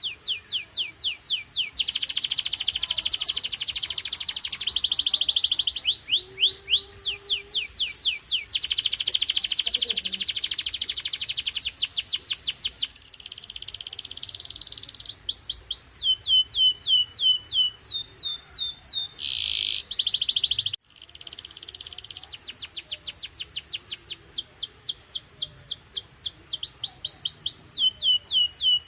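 Domestic canary singing at full power in rolls: fast runs of the same high, falling note repeated many times a second, switching to a new roll every few seconds. The song breaks off for an instant about two-thirds of the way through, then picks up again.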